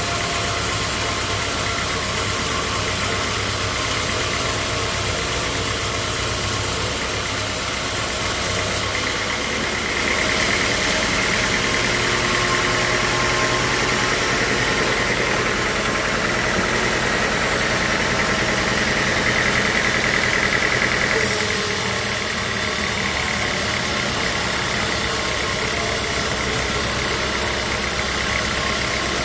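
Sawmill machinery running steadily, with a louder, higher-pitched whine from about ten seconds in that drops away again about twenty-one seconds in.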